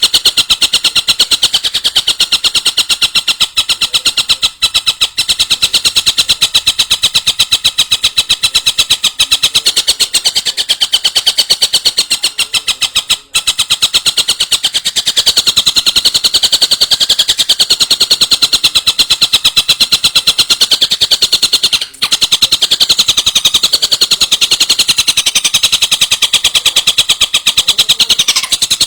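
A bird's fast, high-pitched rattling trill, about fifteen pulses a second, kept up without pause and broken only by a short gap about every nine seconds, as in a looped masteran training recording.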